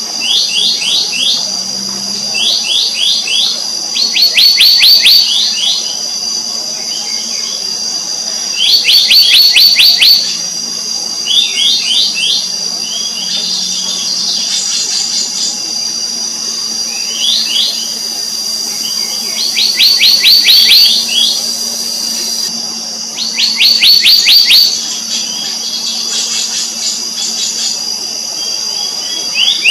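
Black-naped monarch calling: short runs of rapid, high notes, each about a second long, repeated every few seconds over a steady high insect drone.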